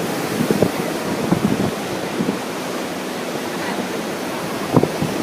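Ocean surf washing steadily on the shore, with wind buffeting the microphone in irregular gusts, one strong gust near the end.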